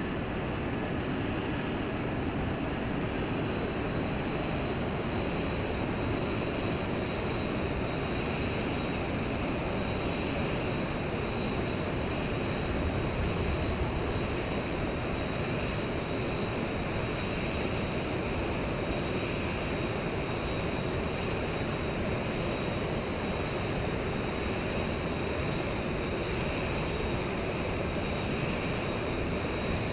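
Steady, unbroken roar of a Boeing 787-10 airliner in flight, its twin turbofan engines and airflow making an even noise, with a faint steady high whine above it.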